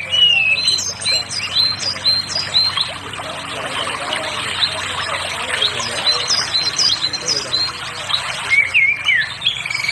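Songbirds chirping and singing. A short call is repeated about twice a second for the first few seconds, quicker high chirps follow, and a warbling, gliding phrase comes near the end.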